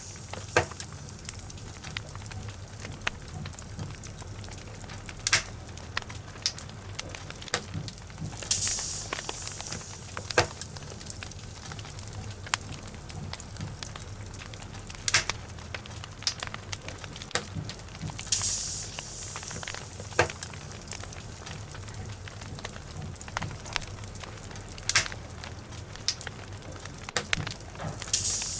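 Log fire burning in a fireplace, crackling with scattered sharp pops over a steady low rumble. Brief hissing swells come about every ten seconds.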